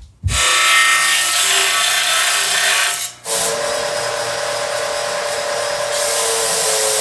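Power tool working wood: a steady whir with a motor whine, stopping for a moment about three seconds in and starting again.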